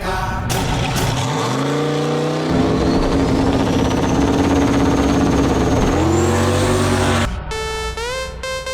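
Turbocharged LS V8 race car accelerating hard down the strip, the engine note climbing and breaking twice as it changes gear, with a thin high turbo whine rising over it. The engine sound cuts off abruptly about seven seconds in, giving way to electronic music.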